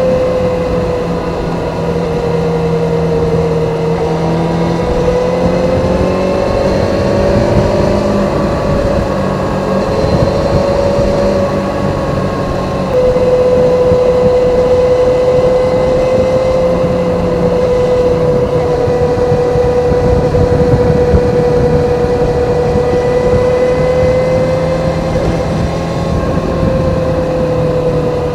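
Kawasaki ZZR400's inline-four engine with its stock exhaust, running at a steady cruising speed under way, its pitch dipping and rising slightly. It gets louder about 13 seconds in, over a steady rush of road and wind noise.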